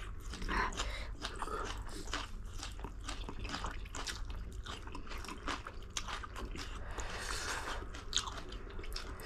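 A person eating up close: chewing and biting, with many small irregular wet clicks and smacks of the mouth.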